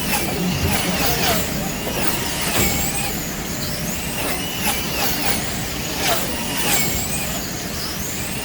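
Several wing slot cars' small electric motors whining around the track, their pitch rising and falling over and over.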